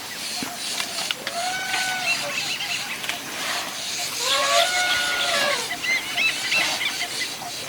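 Elephant calling twice, each call a long tone that rises and then falls in pitch, lasting about a second and a half.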